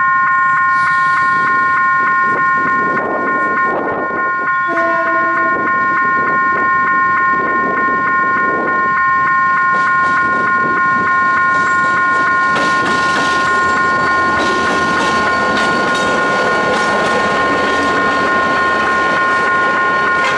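A level-crossing warning alarm sounds steadily with several tones at once, and a short train horn blast comes about five seconds in. From about twelve seconds a diesel locomotive and its passenger coaches pass close by, the engine and wheel noise swelling, with wheels clicking over the rail joints and crossing.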